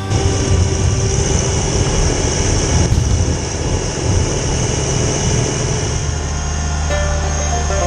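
Kubota compact tractor's diesel engine running hard with its snowblower, a loud steady noise; about six seconds in it settles into a steadier low hum.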